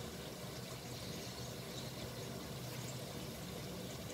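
Faint, steady sizzle of strips of jiló (scarlet eggplant) frying in hot oil.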